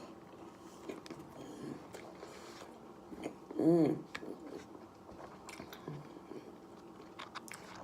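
Close-up chewing of a mouthful of a spicy McChicken sandwich: soft crunches and wet mouth clicks, with a brief hum of the voice about three and a half seconds in.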